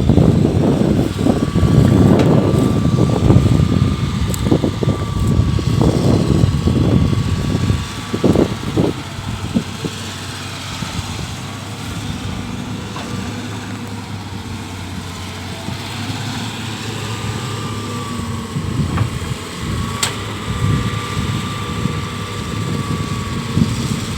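Komatsu PC130 hydraulic excavator running while it works, with a faint steady whine. Its engine and hydraulics are loud and busy, with frequent knocks for the first several seconds, then settle to a steadier, quieter run.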